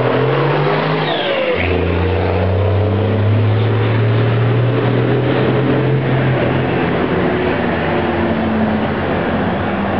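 Straight-piped Cummins turbo diesel truck engine running and revving, its pitch rising and falling. About a second and a half in, a steady low drone sets in and holds for about five seconds before the pitch wanders again.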